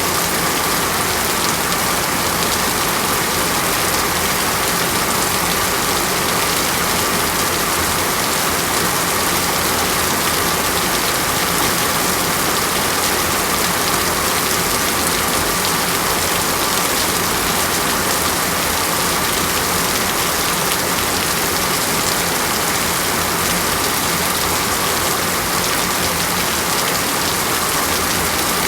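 Steady rain falling and pattering on a surface, an even, unbroken hiss.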